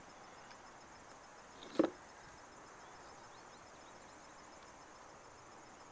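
Quiet marsh ambience with a faint steady insect drone, broken by a single knock about two seconds in.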